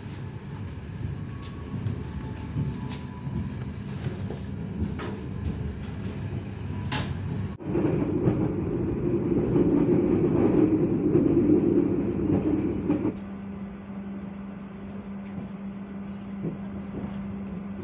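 Passenger train coach running on the rails, heard from inside: a steady low rumble with scattered clicks, louder for a few seconds in the middle. From about two-thirds through, a quieter steady low hum.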